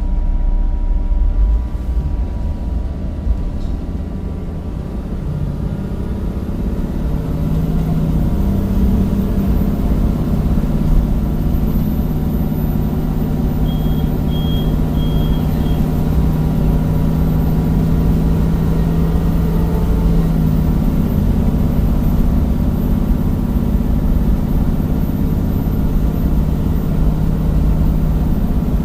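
Cummins diesel engine of a Temsa Avenue bus driving through its ZF gearbox, its engine note changing pitch in steps a few times. A short run of three high beeps about halfway through.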